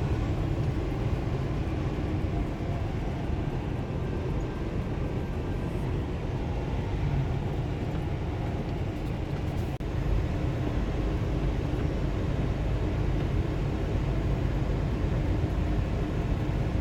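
Steady engine and road noise inside a semi-truck's cab, cruising at highway speed.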